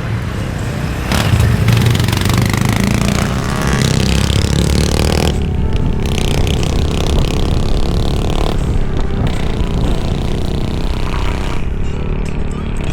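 Motorcycle engine running while riding on the road, heavily mixed with wind and road noise. The engine note rises about a second in.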